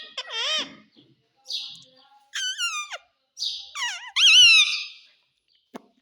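Pet parrot calling: a string of about five short harsh screeches and gliding, pitched squawks, the loudest about four seconds in, then a few faint clicks.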